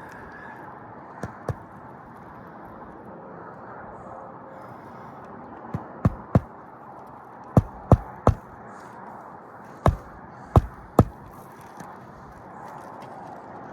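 Hammer blows on an asphalt shingle roof: about a dozen sharp strikes in short groups of two or three, over a steady background hiss.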